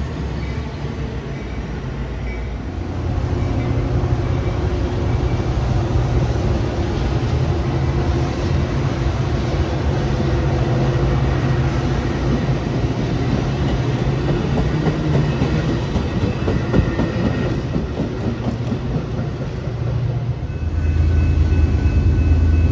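Train rolling past close by: a steady rumble of wheels on rail with low running tones, growing louder with a deeper hum near the end.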